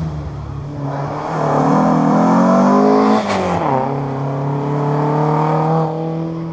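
Historic rally car accelerating hard toward and past the listener. Its engine pitch climbs, then falls steeply about three seconds in as the car goes by, and the engine note carries on as it pulls away.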